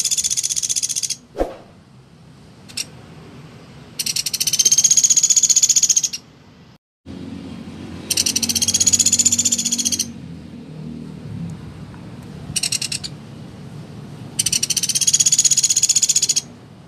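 Sunda pygmy woodpecker giving rapid, high-pitched trilling rattle calls, each about two seconds long, four times with a short trill in between.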